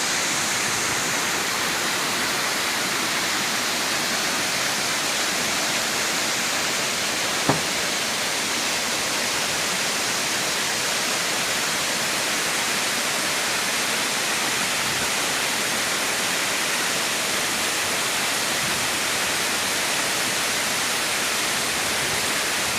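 Waterfall rushing steadily, with one short click about seven and a half seconds in.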